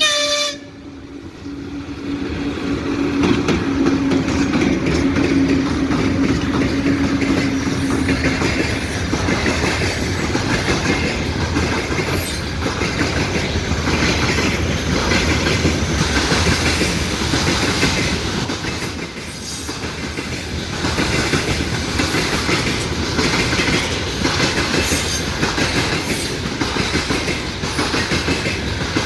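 A train passing close by, its wheels clattering rhythmically over the rail joints. A short horn blast cuts off right at the start, and a steady hum fades out over the first eight seconds or so.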